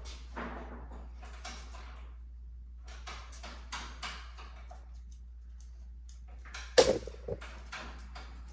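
Scraping, rustling and light knocking of wood or tools being handled, with one sharp, loud knock and a smaller one about two-thirds of the way through, over a steady low hum.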